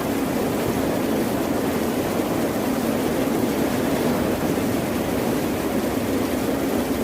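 Steady, even rushing of water, with no separate wave breaks or sharp impacts standing out.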